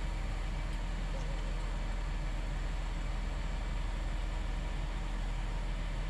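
An engine running steadily with a low, even drone, most likely the crane's engine as it handles the mast.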